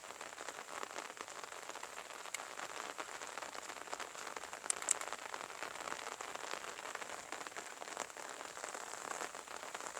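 Steady light rain falling, a fine even patter of drops, with a couple of sharper drop clicks about halfway through.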